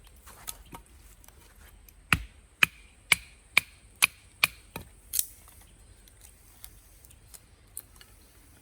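Firewood being split by hand: a quick run of about eight sharp chopping strikes, roughly two a second, each with a short ringing knock.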